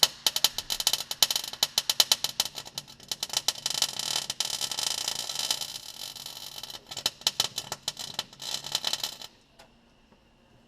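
Electric arc welder laying a bead on a rusty Jeep Wrangler YJ frame, a dense irregular crackle and popping that stops abruptly about nine seconds in. The frame steel is very dirty, which makes the arc sputter.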